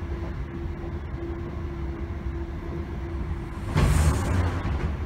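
Class 321 electric train running, heard from on board: a steady low rumble of wheels on track with a faint steady hum. Nearly four seconds in, a sudden loud rushing noise lasts about a second, then the rumble carries on.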